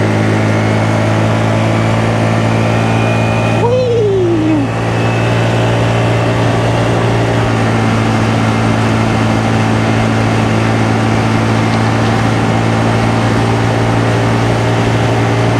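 Honda Navi's 109 cc single-cylinder four-stroke engine running at a steady riding speed. A brief falling tone is heard about four seconds in.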